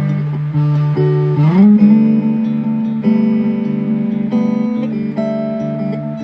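Guitar music: sustained plucked notes, with one note sliding up in pitch about a second and a half in.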